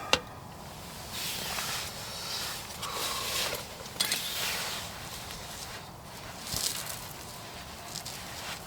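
Irregular rustling and crinkling handling noises in several short bursts, with a sharp click at the start and another about four seconds in.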